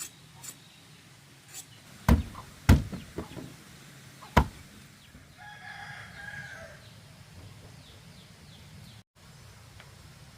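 A few sharp knocks, then a rooster crowing once, a call of about a second and a half.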